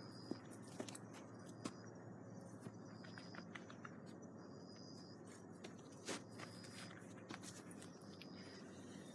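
Wood campfire crackling faintly under a hiss, with scattered sharp pops, the loudest about six seconds in.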